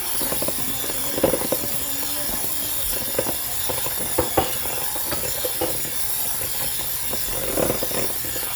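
Electric hand mixer running steadily in brownie batter, with irregular knocks and clatters throughout.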